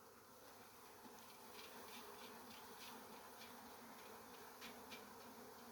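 Faint, steady buzzing of flying insects, with a few soft clicks.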